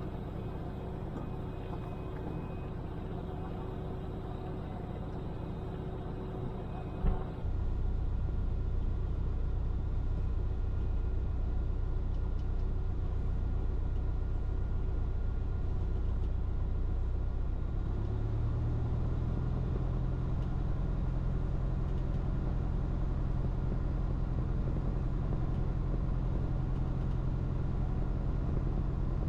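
Cirrus light aircraft's piston engine and propeller running at low power, a steady drone. A sharp click about seven seconds in is followed by a louder drone, and the engine speed rises a little about eighteen seconds in.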